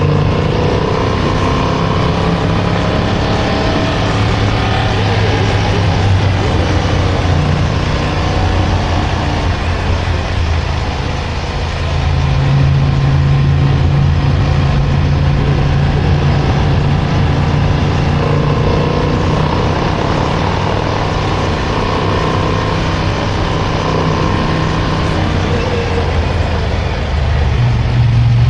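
Motorcycle engine running steadily under way, its note stepping up in level about twelve seconds in and again near the end, with wind and road noise over the microphone.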